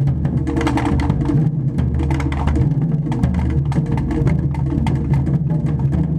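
Japanese taiko drums played in a fast, continuous run of strikes.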